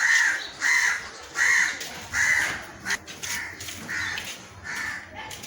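A crow cawing over and over, about one harsh caw every three-quarters of a second, the later caws a little weaker.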